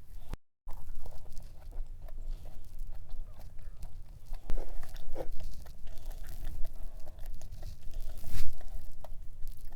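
Close-miked eating of a dense cream-cheese cup cookie: crunchy bites and chewing, with the loudest crunch near the end.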